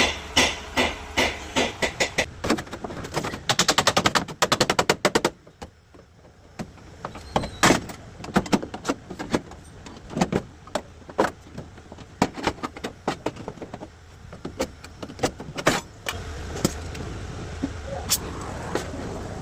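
Repeated knocks and blows on a rusty vehicle platform, with a fast rattling run of strikes about four seconds in, then slower irregular knocks, over a steady low hum.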